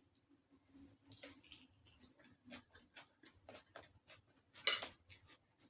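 Close-up eating sounds: chewing chicken and coleslaw, heard as a run of short, wet, smacking clicks, with one louder, sharper noise a little before the end.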